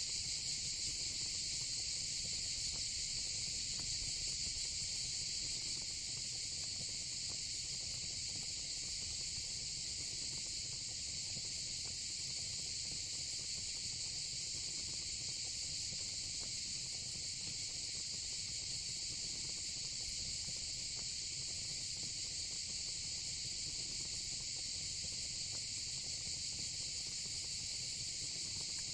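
A steady, high-pitched, unbroken chorus of night insects, with a faint low rumble underneath.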